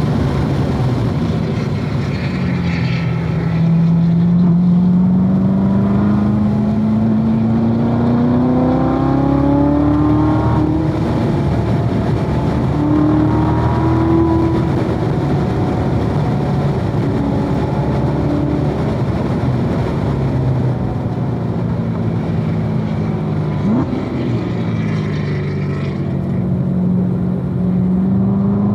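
2016 Corvette Z06's supercharged 6.2-litre V8 pulling hard on track: the engine note climbs steadily for several seconds, drops back at a gear change about ten seconds in, falls away about twenty seconds in with a quick blip, and climbs again near the end.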